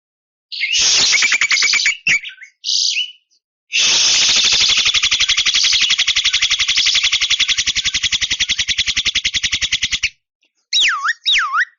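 Javan myna (jalak kebo) calling: a short fast chatter, then a long, fast, even rattle lasting about six seconds. Near the end come repeated siren-like whistles that sweep down and up, about three a second.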